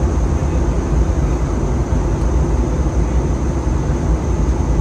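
Steady low roar inside the cabin of an Airbus A320 in flight: engine and airflow noise, heaviest in the deep rumble, with a faint high steady whine.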